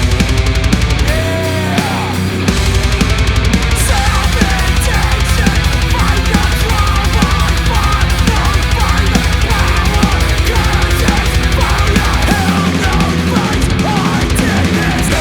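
Black metal recording with fast, dense drumming and distorted guitars; the heavy low end thins out near the end.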